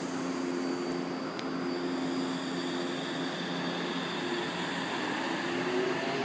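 São Paulo Metro Line 3 train at the platform, its motors and running gear giving a steady rumble with a hum, and a rising whine near the end.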